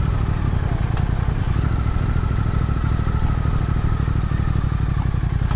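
Motorcycle engine running at a steady pace on the move, its low drone even throughout, with a few faint ticks over it.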